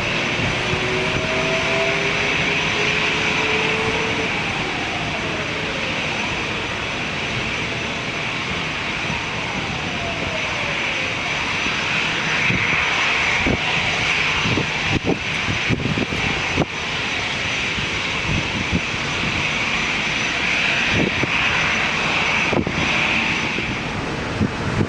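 Jet airliner's engines running loud and steady, with whining tones that fall in pitch over the first several seconds as it passes. Short knocks or buffets come through in the second half.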